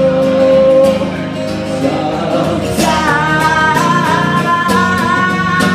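Live indie folk band playing: guitar under an even drum beat, with a held sung note at the start and, from about halfway in, a long high melody line held over the band.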